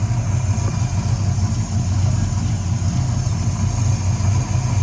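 Box Chevy's engine idling steadily and evenly, running smooth "like a sewing machine" just after a tune-up with new spark plugs and plug wires.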